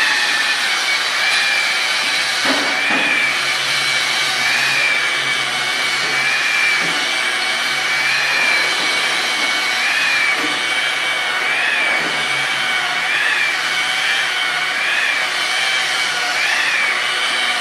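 Electric polisher running on a clear-coated wood tabletop, a steady whine that wavers slightly every second or two as the pad is worked across the surface.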